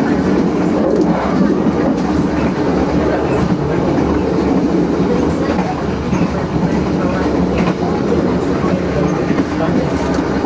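Passenger train carriages running at speed, a steady rumble of wheels on the rails heard from the rear of the train, with occasional faint clicks.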